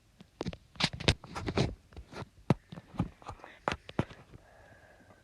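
A run of irregular light clicks and taps, more than a dozen, with some soft scraping between them: handling noise close to the microphone.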